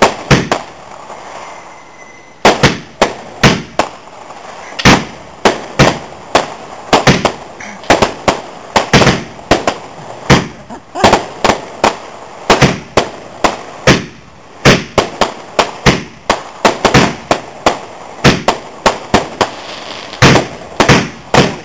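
Fireworks going off: a long, rapid, irregular barrage of sharp bangs, several a second, starting after a brief lull and carrying on without a break.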